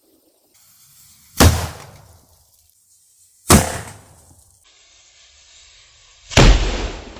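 Charged foam fire extinguisher bursting in a bonfire: a loud bang with a short rumbling tail, heard three times about two to three seconds apart, the last one with the longest tail.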